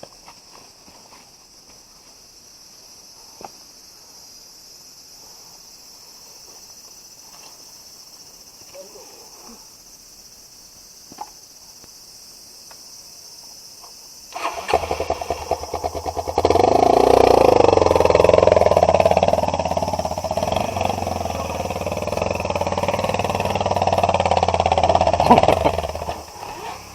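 Faint outdoor ambience with a few small clicks, then about halfway through an off-road motorcycle engine comes in loudly and runs hard under throttle with a steady note, as the bike is ridden up a trail section with momentum. It fades near the end.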